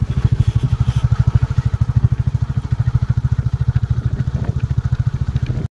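Motorcycle engine running steadily while riding, with a fast, even beat of firing pulses.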